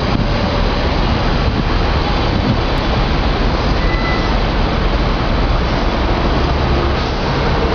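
Long-distance passenger train hauled by a DF11 diesel locomotive passing, a loud steady rumble of wheels on rail.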